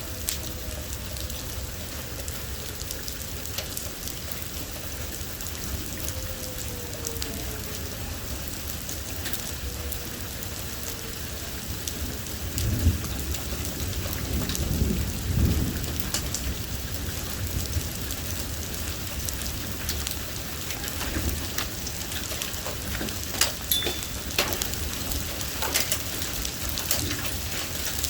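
Heavy thunderstorm rain falling steadily, with a low rumble of thunder about halfway through. A siren's falling wail dies away in the first few seconds, and a few sharp taps of drops striking come near the end.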